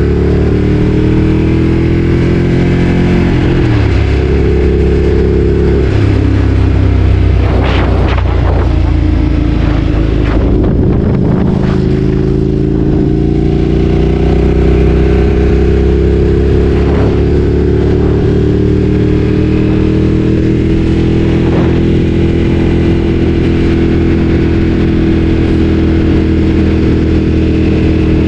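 Ducati Streetfighter 848's L-twin engine running on the move. Its pitch falls over the first few seconds and shifts abruptly about four seconds in, as at a gear change. From about twelve seconds on it settles into a steady, slowly rising drone as the bike pulls along.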